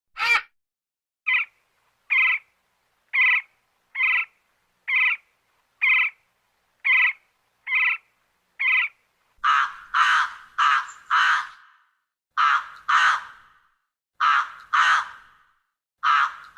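A bird giving short, harsh calls, about one a second for the first nine seconds, then louder calls coming in pairs and threes with a trailing echo.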